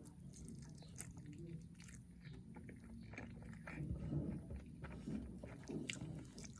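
Close-miked chewing and biting of fried milk tofu: wet mouth sounds with many small crisp clicks, louder about four seconds in and again near the end.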